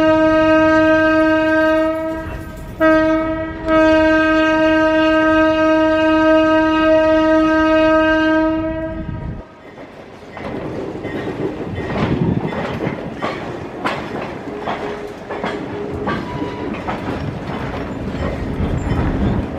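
Locomotive horn sounding a steady single note: a long blast, a short one, then a long blast that stops after about nine seconds. After that, the rolling clickety-clack and knocking of the caboose's wheels over the rail joints.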